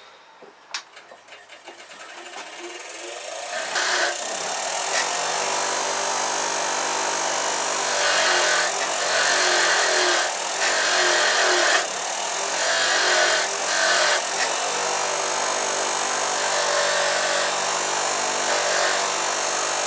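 Bench grinder's wire wheel spinning up over the first few seconds, then running steadily while rusty bolts are pressed against the wire brush, the rasping coming and going as they are worked on and off the wheel.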